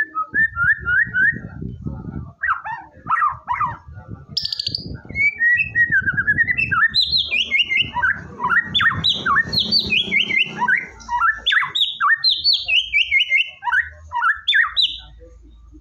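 White-rumped shama (murai batu) singing a fast, varied song of whistled notes, chirps and short trills, over a low rumbling background noise.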